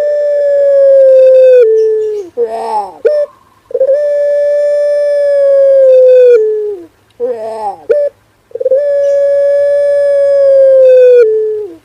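Male puter pelung dove (domestic collared dove) cooing: long, drawn-out held coos that each drop a little in pitch and end with a short note sliding down. Two full coos and most of a third.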